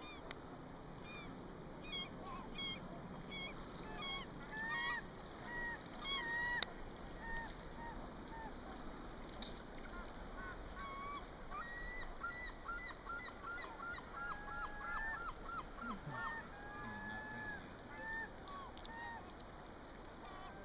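Birds calling over and over, short curved calls with a quick run of rapid calls around twelve to fifteen seconds in. A sharp click about six and a half seconds in.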